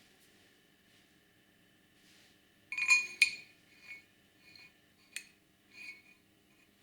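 Metal parts of a gear shifter clinking as they are handled and fitted together: a loud cluster of clinks about three seconds in, then a few lighter single clinks spaced roughly half a second to a second apart.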